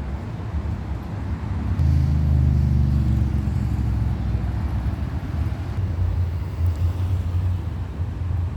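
Low rumble of a car going by, louder from about two seconds in.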